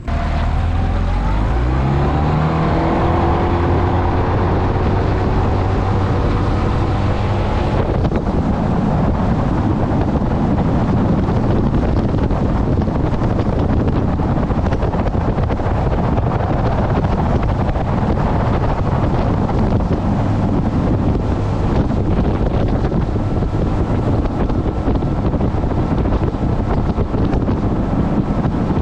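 Small outboard motor on a Gheenoe throttling up, its pitch rising over the first several seconds as the boat gets on plane. It then runs steadily at speed, with wind rushing over the microphone.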